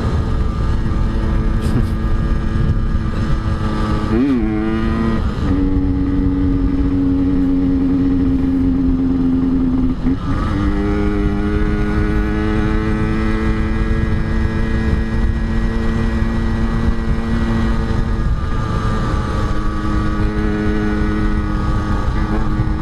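Yamaha RX-King's two-stroke single-cylinder engine running under way. Its steady note dips briefly about four seconds in and again about ten seconds in, then climbs slowly, over a low rumble of wind noise.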